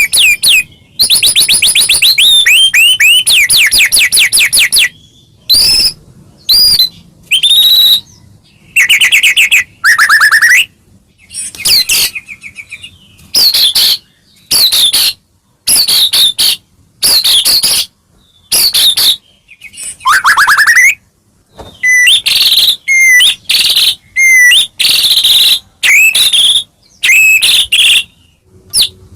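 White-rumped shama (murai batu) singing a loud, busy song: rapid trills of quickly repeated notes alternate with rising and falling whistled phrases, broken by short pauses.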